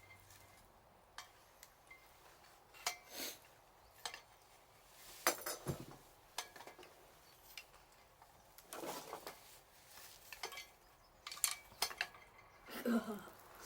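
Scattered clinks and knocks of handled hard objects, some single and some in quick clusters of two or three, with the loudest near the middle and near the end.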